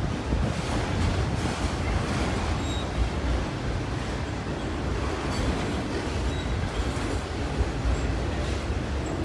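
Freight train of enclosed autorack cars rolling past: a steady rumble and rattle of steel wheels on the rails.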